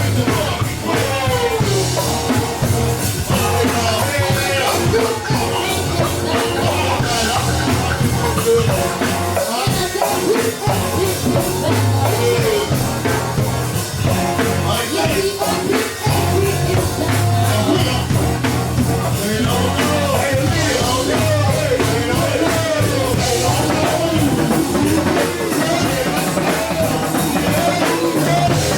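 A live band playing rock-style music, with drum kit and a singing voice over a steady beat.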